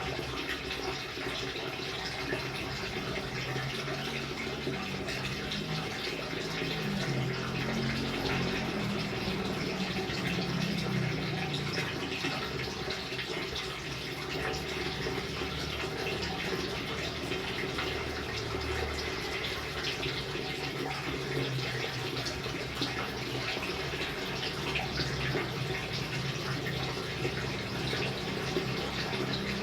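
Steady rain falling: an even hiss of water with many small drop hits scattered through it.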